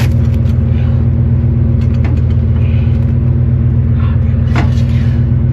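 GMC pickup truck's engine idling steadily, with a sharp click about four and a half seconds in.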